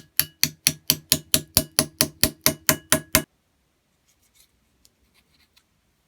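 A quick, even run of about fifteen sharp metal-on-metal strikes, roughly four a second, each with a short ring; it stops abruptly just over three seconds in. A few faint light ticks follow.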